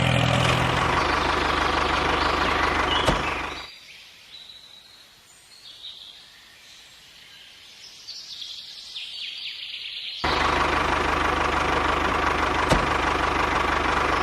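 Small engine of a homemade machine running steadily. It stops abruptly about three and a half seconds in, leaving faint bird chirps, then returns just as abruptly about ten seconds in.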